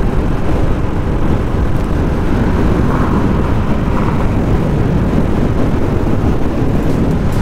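Riding noise from a Royal Enfield Classic 350 on the move: a steady, loud rumble of wind buffeting the camera microphone over the single-cylinder engine.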